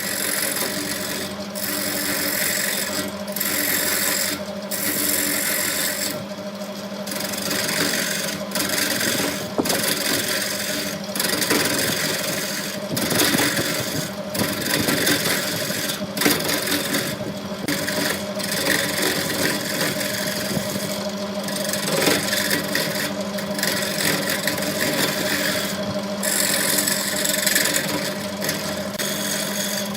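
Wood lathe running with a steady hum while the spinning wood is worked against, a rough scraping noise that breaks off for a moment every second or two.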